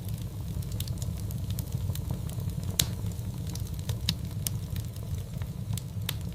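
Wood fire crackling in a fireplace: irregular sharp pops and snaps, the loudest a little under three seconds in, over a steady low rumble of the burning fire.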